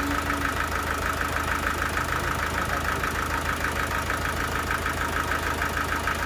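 Sawmill machinery running steadily, with a fast, even pulsing.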